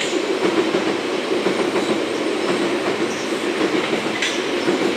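Class 465 Networker electric multiple unit crossing the rail bridge overhead, a steady rumble of wheels on the track with some clickety-clack.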